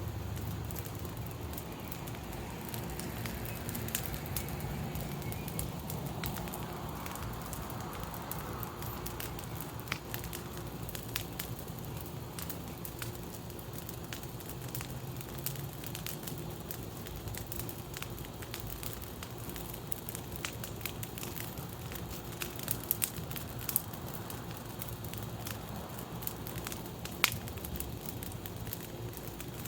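Bonfire crackling and popping steadily, with a few sharper, louder pops a little past the middle and near the end.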